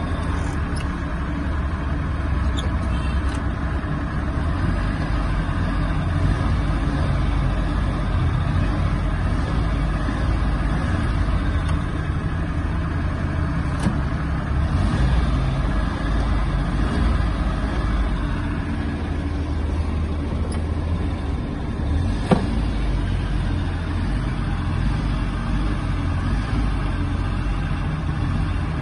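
Suzuki Mehran's small three-cylinder petrol engine running with the accelerator pedal held and pressed, fairly even in level with only mild swells. A single sharp click comes about three-quarters of the way through.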